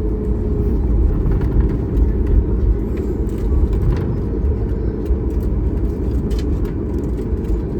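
Steady rumble of a Boeing 737 MAX 8's CFM LEAP-1B engines and airflow heard inside the passenger cabin, with a few faint ticks in the middle.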